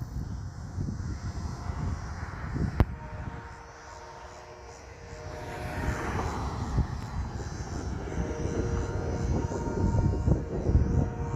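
Slow freight train rolling past: a low rumble with one sharp knock about three seconds in, and faint steady metallic tones from the wheels from about halfway on.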